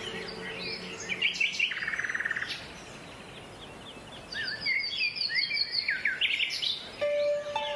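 Small songbirds chirping and singing: assorted short whistled chirps, a brief buzzy trill, and a quick run of repeated high notes. Background music fades out early and comes back in near the end.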